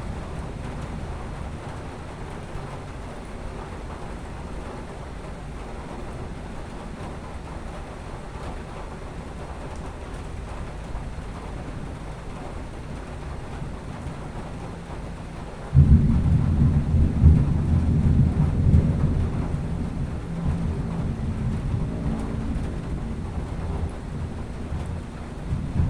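Thunder: a loud clap breaks in suddenly about sixteen seconds in and rolls on, slowly fading, over a steady background of rain.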